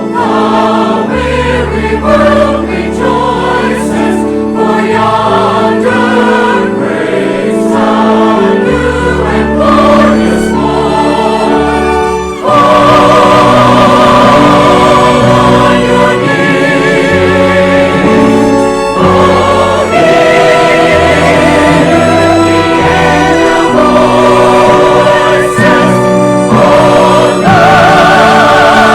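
Church choir singing with orchestral accompaniment, held chords over deep sustained bass notes. About halfway through it swells louder and fuller, with wavering held notes on top.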